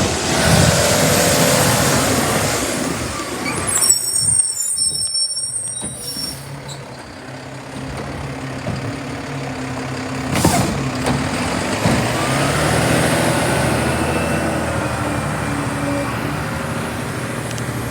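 Republic Services garbage truck running on the street: diesel engine noise, a high squeal of brakes about four seconds in, a short sharp burst about ten seconds in, then the engine rising in pitch as it pulls ahead.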